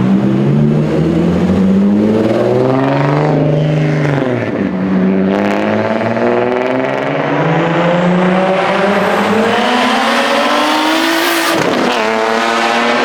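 Car engine accelerating hard under load, its pitch climbing through two long pulls. Near the end it drops sharply with a short crack as it shifts, then climbs again.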